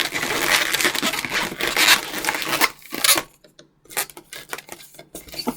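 Latex modelling balloon being twisted and handled: dense rubbing and crinkling for the first two and a half seconds or so, then quieter, scattered rubs and clicks.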